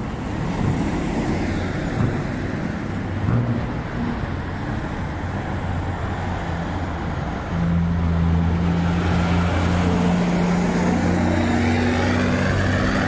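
Road traffic noise: a steady rush of passing vehicles with a low engine hum. About halfway through, a louder, deeper engine note sets in and holds steady.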